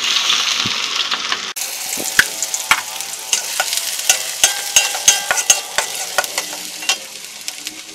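Chopped onion and garlic sizzling as they hit hot oil in a wok, loudest in the first second and a half. After that a metal spatula clicks, scrapes and rings against the wok many times as they are stirred, over a quieter sizzle.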